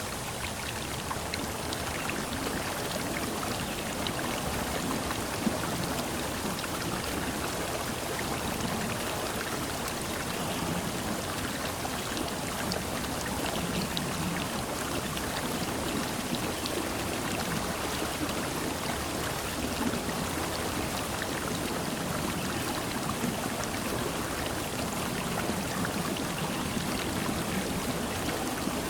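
Steady rush of falling water, with faint scattered drip-like ticks over it.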